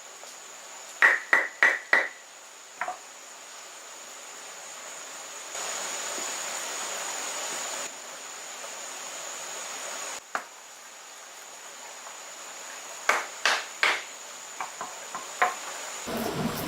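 Sharp knocks of a hard tool striking in short bursts: four quick strikes about a second in, then three more near the end, followed by a few lighter taps. A steady high-pitched whine, like an insect, sounds throughout.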